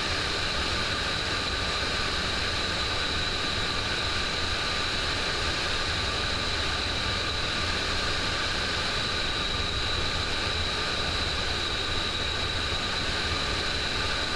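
Steady flight-deck noise of a Boeing 727 on final approach: an even rushing hiss with a high, steady whine over it.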